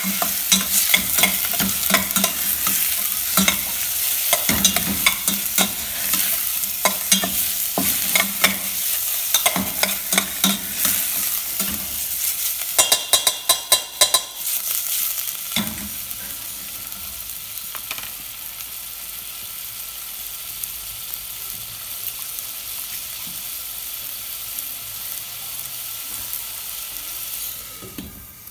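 Chicken pieces sizzling in oil in a stainless steel pot while a metal spoon stirs and scrapes them, with a quick run of ringing clinks from the spoon on the pot about 13 seconds in. The stirring stops at about 16 seconds, leaving a steady sizzle that drops and softens near the end as the lid goes on.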